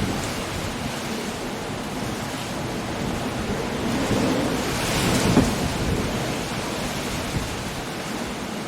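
Coastal storm: a steady wash of rain, wind and surf, swelling into a louder surge that peaks about five seconds in and then eases.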